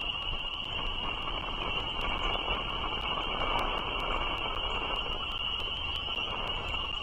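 A continuous high-pitched frog chorus over a steady low rumble, with no clear bird calls.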